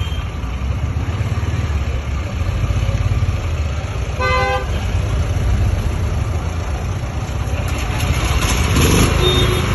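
A portable petrol generator set's engine running steadily with a low rumble. A vehicle horn honks once, briefly, about four seconds in, and a rushing noise swells between about eight and nine and a half seconds.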